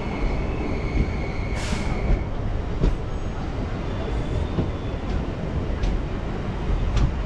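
Passenger train running on the track, heard from alongside the coach: a steady rumble of wheels on rail. A thin wheel squeal fades out about two seconds in, a short hiss comes around a second and a half in, and sharp clicks from rail joints follow a few times.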